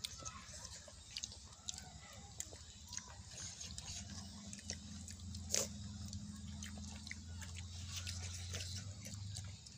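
Close-up eating sounds of children chewing and smacking their lips on rice and pork eaten by hand, with many small wet clicks and crunches and one sharper click a little past halfway. A low steady hum runs underneath.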